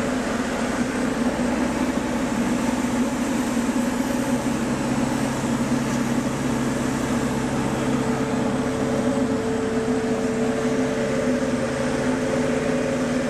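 Light aircraft's piston engine and propeller running in a steady drone during a landing approach. A few pitched hum tones sit under the noise, and a higher tone joins about two-thirds of the way through.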